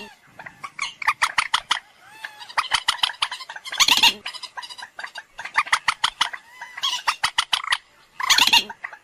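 Common moorhen calling: rapid stuttering series of clicking notes in bursts about a second long, repeated again and again, a few of them louder and harsher.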